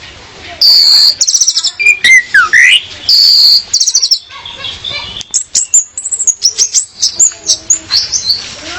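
Female orange-headed thrush (anis merah) calling. Harsh chattering notes and fast trills come in the first half, and a quick run of short high whistled notes fills the second half.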